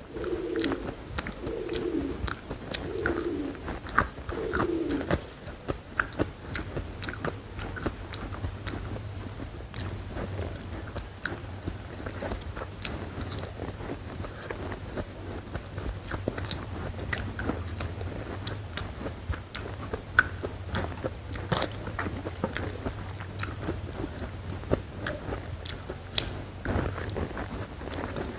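Close-up crunchy biting and chewing of food, with wet mouth clicks throughout. A dove coos about five times, a second apart, over the first few seconds.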